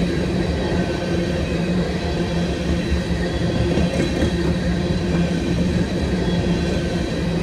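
CN freight train's tank cars rolling past: a steady rumble of steel wheels on the rails, with a steady low hum running through it and no breaks or changes.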